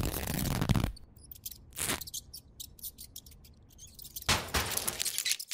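Cartoon sound effects of a hamster wrecking things: a scraping rush in the first second, then scattered short clicks and a quick swish, and another scraping burst near the end.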